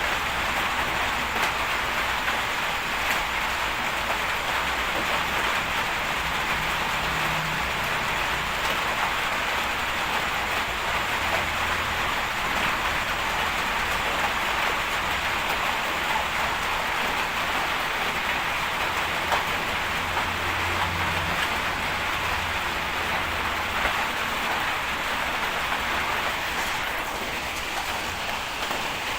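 Heavy bulldozer's diesel engine running low under a steady hiss, the engine drone swelling now and then.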